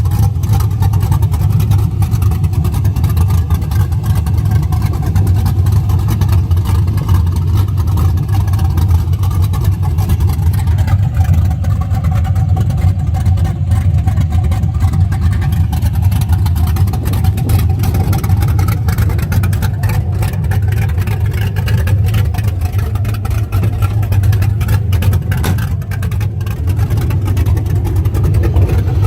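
5.3L LM7 Vortec V8 with a BTR Stage IV truck cam idling through long-tube headers, a steady, lumpy cam lope.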